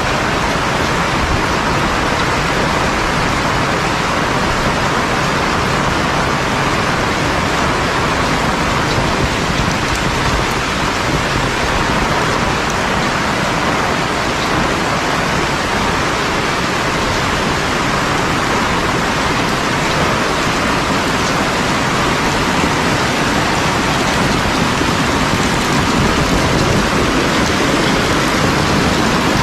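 Heavy rain pouring steadily, a dense even hiss of falling rain.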